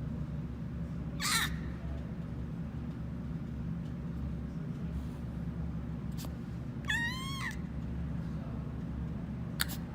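Two short animal calls: a brief one about a second in and a longer one with wavering pitch near the seven-second mark, over a steady low hum.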